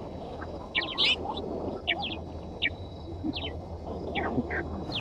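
Birds chirping: short, high calls that drop in pitch, several each second, over a steady low rumble.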